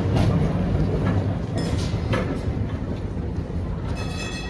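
Tram rolling into a stop: a low rumble with wheels clicking over rail joints, gradually growing quieter as it slows. Near the end a high ringing tone sounds briefly.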